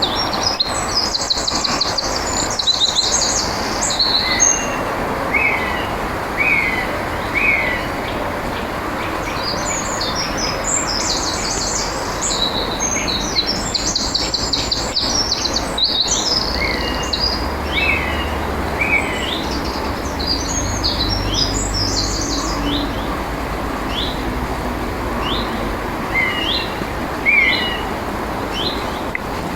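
Songbirds singing: rapid high phrases in bouts, with short repeated sliding notes lower down, over a steady outdoor background hiss.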